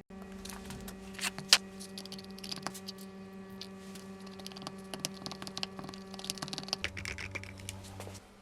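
Irregular light clicks and taps of handwork over a steady electrical hum, with one sharper click about a second and a half in; the hum cuts out near the end.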